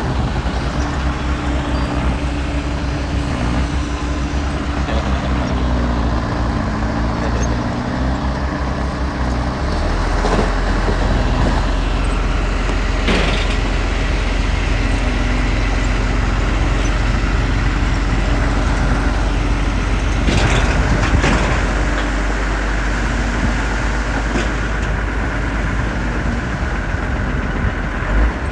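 Diesel earthmoving machinery running, its revs rising and falling, louder from about ten seconds in, with a few short knocks.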